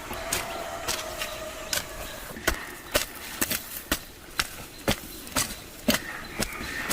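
A series of sharp knocks, about two a second, somewhat unevenly spaced, like chopping or tapping on wood.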